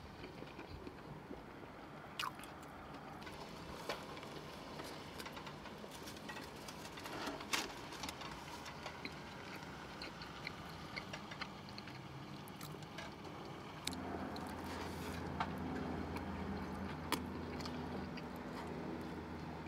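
Close-miked chewing and mouth-smacking of a person eating a steak and cheese sub, with scattered sharp mouth clicks. A low steady hum comes in about two-thirds of the way through.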